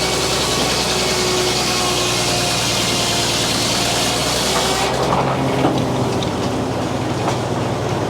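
Frick sawmill's circular saw cutting through a poplar log, a loud steady hiss over the running machinery. About five seconds in the cutting hiss stops abruptly as the blade comes out of the cut, leaving the mill running with light clattering.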